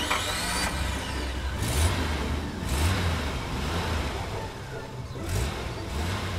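A car engine revving several times, its note surging and falling back, with a rushing sweep at the start.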